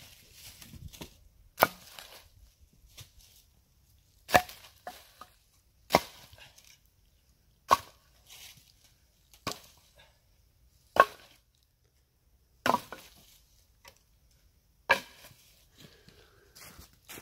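Wood being chopped: eight sharp strikes, roughly one every two seconds, with quiet between them.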